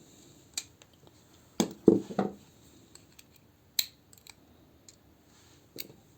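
Scattered small clicks and knocks of a plastic toy figure and a precision screwdriver being handled, with a quick cluster of louder knocks about two seconds in.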